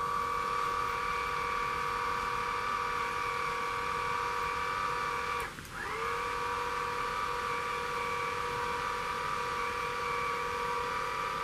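Small electric motor driving a button-operated animated model hot air balloon, running with a steady, slightly high whine. About halfway through it cuts out for a moment, then spins back up to speed.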